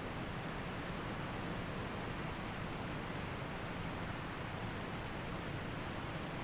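Waterfall and creek water rushing steadily.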